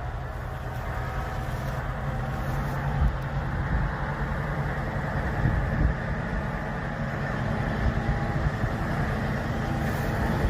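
Scania 143's V8 diesel engine running steadily with a deep, even rumble.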